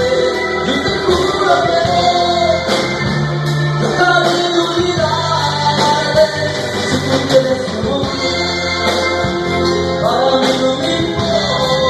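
A band playing a song, with a voice singing over the instruments.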